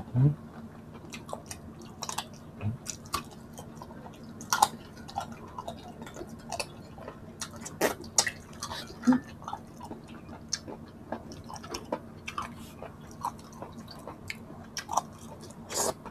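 Close-miked chewing of a person eating salmon-head sinigang and shrimp: wet mouth clicks and smacks come irregularly, a few a second, some louder than others.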